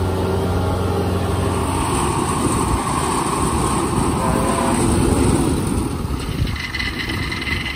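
Engine of a tracked rice harvesting machine running loud and steady as it drives across a field bank, with higher-pitched tones creeping in near the end.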